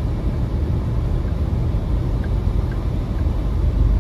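Steady low rumble of a car driving on a snowy road in a blizzard, road and engine noise heard from inside the cabin.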